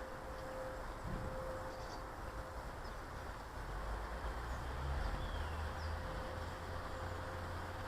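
Faint, scattered chirps of small garden birds over a steady outdoor hiss and a thin steady hum, with a low rumble that swells about four seconds in.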